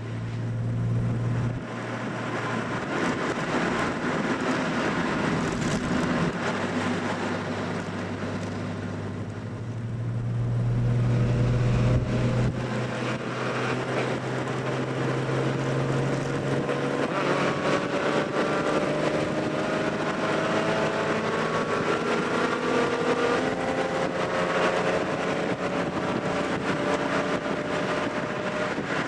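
Classic Nissan Skyline engine, carbureted and running with headers and dual exhaust, heard on the move. It runs at a steady pitch, gets louder about ten seconds in, then rises slowly in pitch through the second half as the car accelerates.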